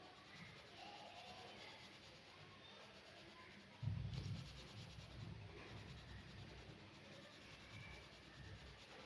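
Faint scratching of drawing strokes on paper, with a low thump about four seconds in.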